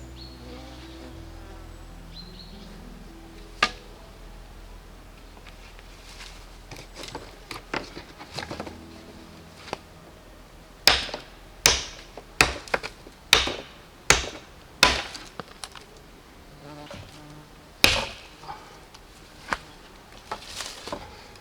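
A run of sharp knocks from handwork, about eight loud ones in quick succession over some seven seconds, with smaller knocks before and after, over a faint steady insect buzz.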